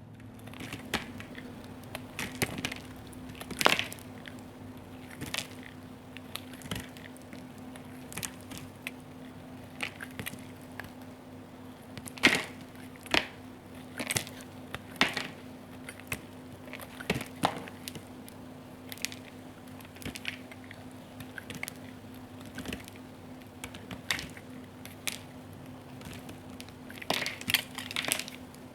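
Knife cutting and carving a bar of soap into cubes, giving crisp cracks and snaps about once a second, irregular. The louder cracks come in clusters around the middle and near the end, over a faint steady low hum.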